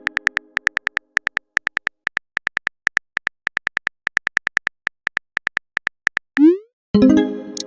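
Phone-keyboard typing sound effect: quick, even, high ticks, about five or six a second with a few short gaps. Near the end come a short rising swoop and a loud chime-like chord that rings and fades, the message-sent notification of a chat.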